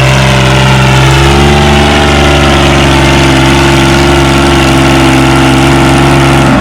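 Farmall 460 tractor engine working hard under load while pulling a weight sled. Its pitch sags slightly about a second in, then holds steady, and drops off sharply at the very end as the pull finishes.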